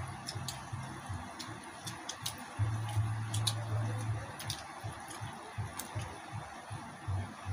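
Close-up mouth noises of people chewing pork: scattered wet smacks and clicks, about one or two a second. A low hum comes in about two and a half seconds in and fades out a couple of seconds later.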